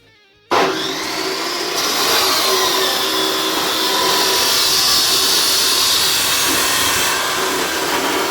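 Power tool motor starting abruptly about half a second in and running steadily at speed, with a high whine that slowly wavers in pitch.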